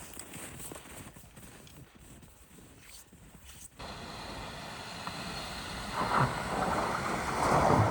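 Wind rushing over the microphone, faint at first; about four seconds in it turns abruptly louder and steadier, swelling twice.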